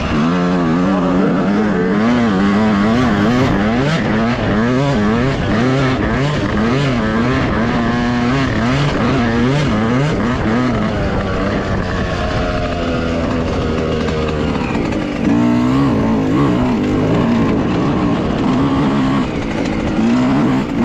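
Dirt bike engine revving up and down again and again as it is ridden along a trail, its pitch rising and falling about once a second, easing to a steadier note for a few seconds past the middle.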